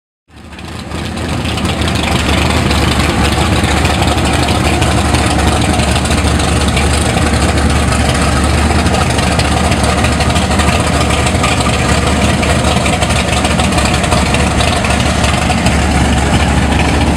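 Classic American car engine idling steadily with a deep, low rumble.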